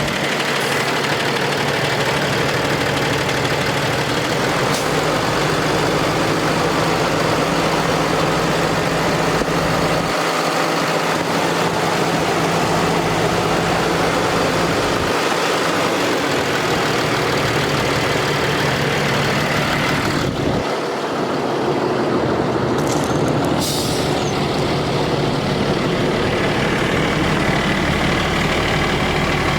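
Cummins 6.7L ISB diesel engine of a Ford F750 water truck running steadily, with a brief hiss about two-thirds of the way through.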